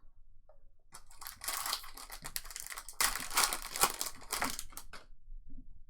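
Plastic trading-card pack wrapper being torn open and crinkled. The crinkling comes in two louder stretches, the second the louder.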